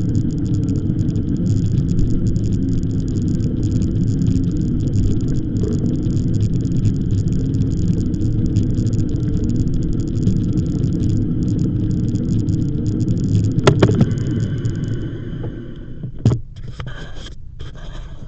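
Steady low rumble of wind buffeting the microphone and tyres running over the path while riding an e-bike, easing off about 15 seconds in as the bike slows. A sharp click a little before that and a single knock soon after.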